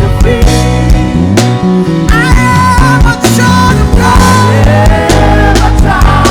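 A worship band playing loud full-band music, with a drum beat, heavy bass and sustained pitched instrument lines.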